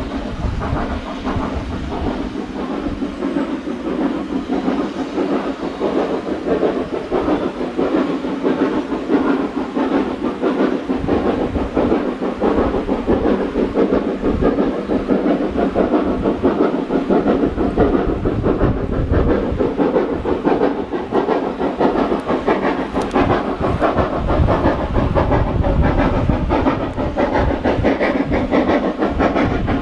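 Steam locomotive working on a heritage railway line, a continuous hiss of steam over the rumble and clatter of the train on the rails.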